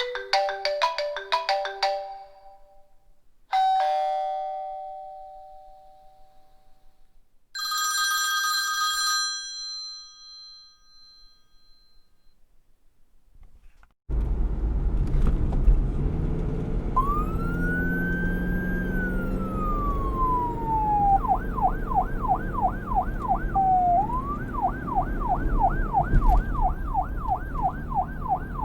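Phone alert tones: a quick run of melodic chimes, a two-note chime that fades out, and a brief ringing tone. About 14 seconds in, a police siren starts over loud engine and road noise. It gives a rising and falling wail, then switches to a fast yelp of about three sweeps a second, back to a short wail, and yelps again.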